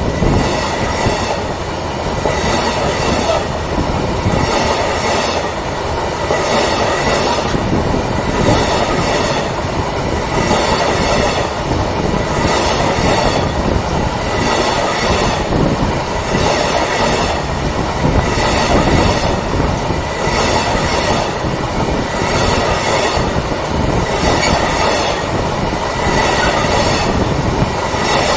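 Rail vehicle rolling along the track, its wheels clicking over rail joints about once a second, with a faint steady wheel squeal.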